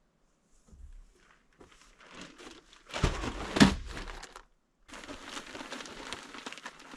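Plastic sheeting crinkling and rustling as it is unrolled, with scattered crackles at first and a loud burst of crumpling about three seconds in, then steady rustling near the end.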